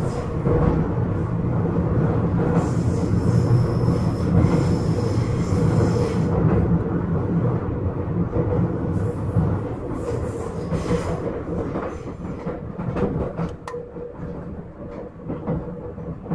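Onboard running sound of an Izukyu 8000 series electric train (ex-Tokyu 8000) on the move: a steady rumble of wheels on rail with a humming tone and a few rail-joint clicks, growing somewhat quieter over the last few seconds.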